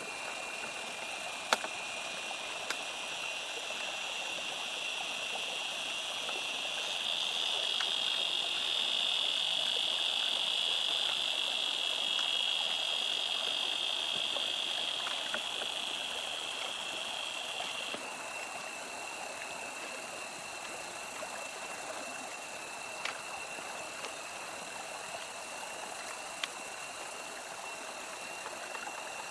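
Steady high-pitched insect chorus. One higher band swells louder about a quarter of the way in and cuts off suddenly a little past the middle. A few sharp clicks sound here and there.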